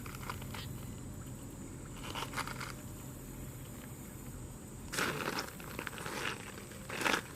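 A few short crunching, rustling noises over a faint steady background, the clearest about five seconds in and again near the end.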